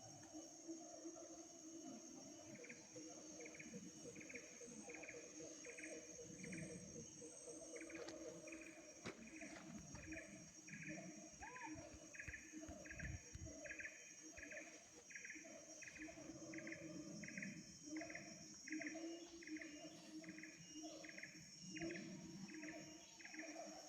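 Faint insects: a cricket-like chirp repeating about twice a second over a steady high-pitched insect hum.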